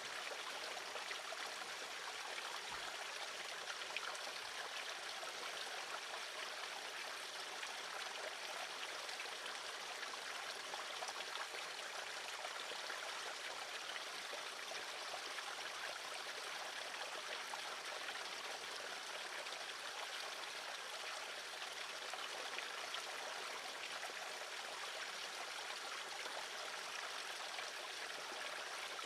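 A steady, even rushing hiss, like running water, with no calls standing out.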